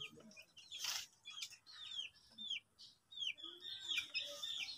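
Birds chirping: a run of short, high chirps that fall in pitch, two or three a second, with a single sharp clatter about a second in.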